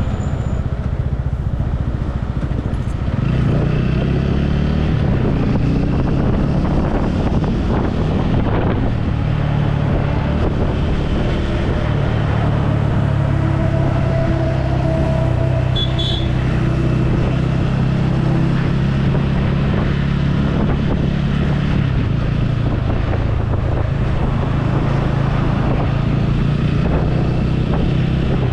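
Motorcycle engine running steadily while riding, its low note shifting as the throttle changes, with road and wind noise mixed in.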